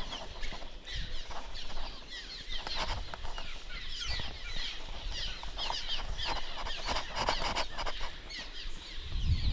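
Many small birds nesting on the bridge calling together: a constant chatter of quick, falling chirps, with river and wind noise underneath.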